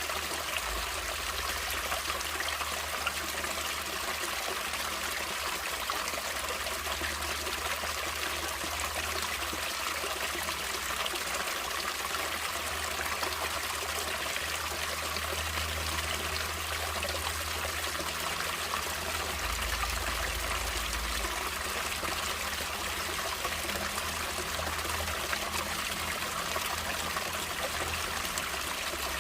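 Water running and trickling in a natural stream, a steady splashing rush with most of its sound in the upper range.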